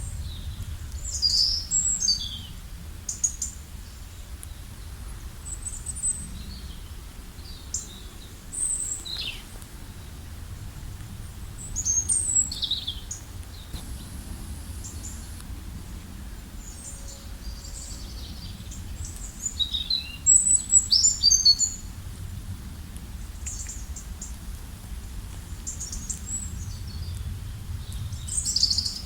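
Several songbirds chirping and singing in short high phrases, with a dense run of calls about twenty seconds in, over a steady low background rumble.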